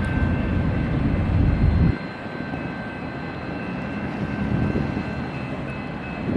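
Freight train rolling by with a low rumble that drops off sharply about two seconds in, leaving a quieter rumble and a few faint steady high-pitched tones.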